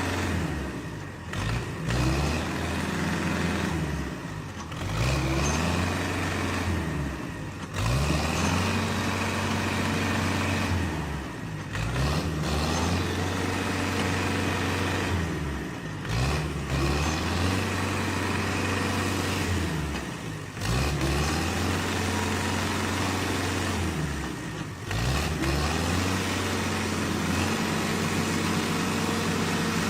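Tractor engine running hard under load, its pitch sagging and climbing back again about every four seconds, as when a stuck tractor is revved repeatedly to work free of mud.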